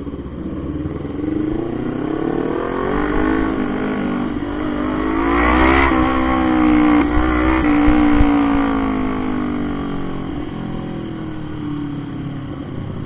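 Motorcycle engine revving up, its pitch climbing steadily for about five seconds, then easing off and falling again.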